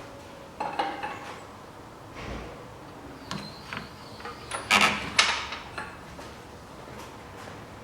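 A few metallic clanks and scraping knocks, loudest in a burst about five seconds in, from the engine and hardware being handled as the engine is set into place in the engine bay.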